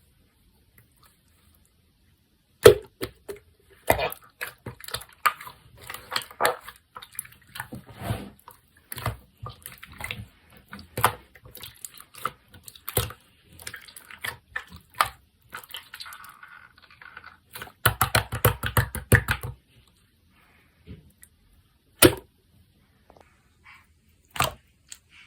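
Clear blue slime being squished and worked by hand: sticky clicks and wet pops, starting with a sharp pop a couple of seconds in. About two-thirds of the way through there is a quick burst of rapid crackling, then a few last separate pops.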